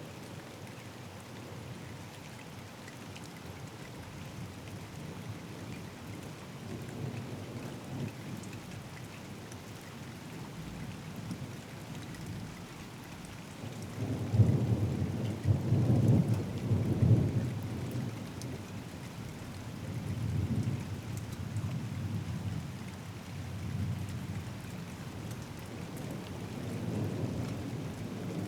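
Steady rain falling, with a long rolling thunder rumble that breaks in suddenly about halfway through, is loudest for a few seconds, then trails off in several weaker rolls.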